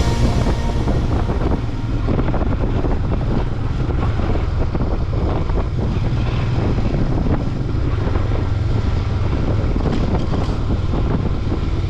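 Royal Enfield Himalayan 411 cc single-cylinder motorcycle running steadily on the move, with wind buffeting the microphone.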